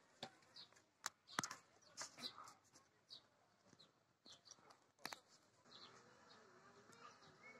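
Near silence with faint, scattered short bird chirps and a few soft clicks.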